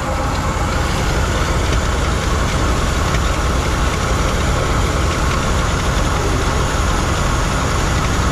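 1970 Chevy C-40 truck's engine running steadily.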